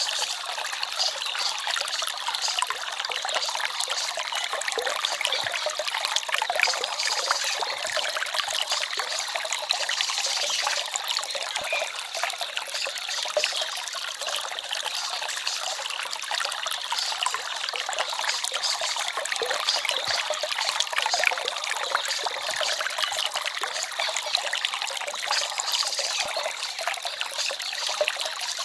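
Small stream babbling and trickling over stones, a steady splashing without pauses.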